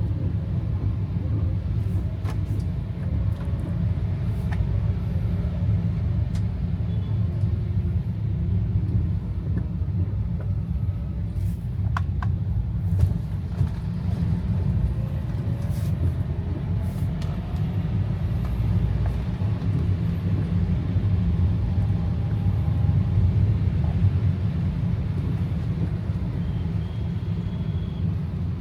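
Steady low rumble of a car's engine and tyres on the road, heard from inside the cabin while driving, with a few faint ticks.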